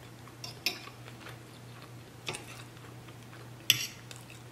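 Chewing: a few short wet mouth clicks and smacks, the sharpest near the end, over a faint steady low hum.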